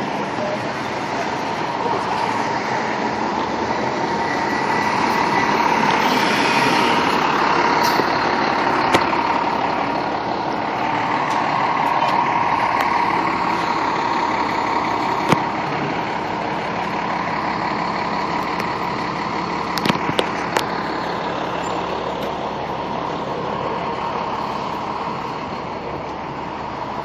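A fire engine's diesel engine running steadily as the rig pulls out without sirens, with a few short sharp knocks along the way.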